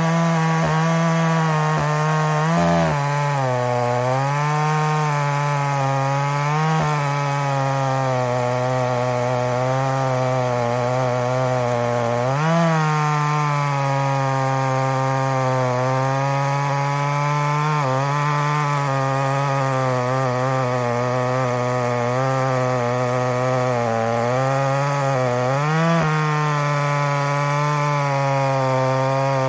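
Echo CS-620P two-stroke chainsaw with a ported dual-port muffler, held at full throttle while a 36-inch bar cuts through poplar. Its steady high engine note sags briefly and recovers about six times as the long bar loads up in the wood.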